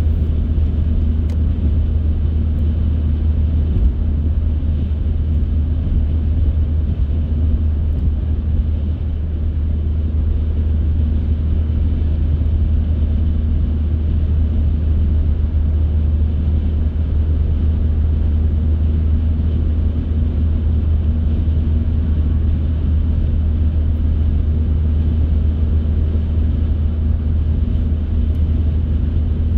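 Car driving at a steady speed: an even low rumble of engine and tyre noise that holds constant without revving or braking.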